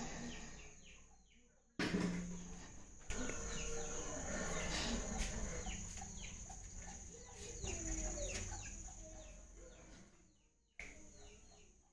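Birds calling in many short chirps, over a steady high-pitched whine; the sound jumps louder suddenly about two seconds in, again a second later, and near the end.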